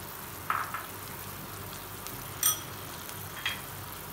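Onion paste and ground spices frying in hot mustard oil in a non-stick pan: a steady sizzle, with three short clicks about half a second in, about two and a half seconds in (ringing briefly) and near the end.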